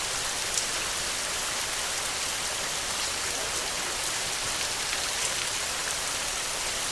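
Steady rain falling, a dense even patter of drops with a few louder single drops standing out.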